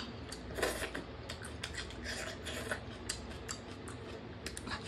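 Mukbang eating sounds of chicken leg pieces being eaten by hand: irregular wet clicks and smacks of chewing, with the meat being pulled from the bone and handled in gravy.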